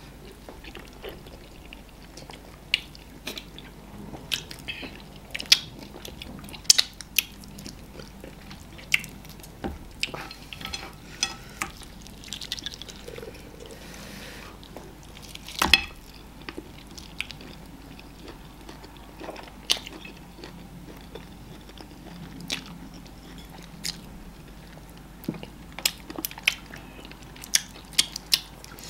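Close-miked eating of amala and slimy ogbono soup with meat by hand: chewing with wet mouth smacks and clicks at an irregular pace, one louder smack about halfway through.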